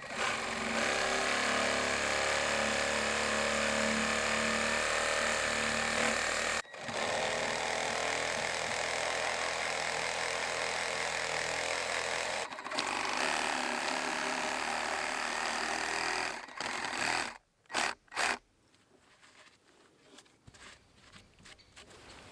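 A small motorised power tool running steadily in three long stretches with brief stops between them, then two short bursts before it stops.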